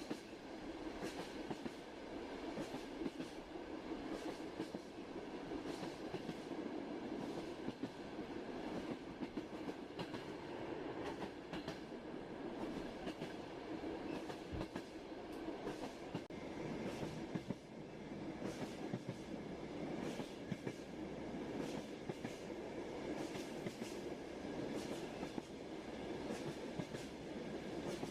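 Train running on rails: a steady rumble with irregular clicking and clacking of the wheels over the rail joints.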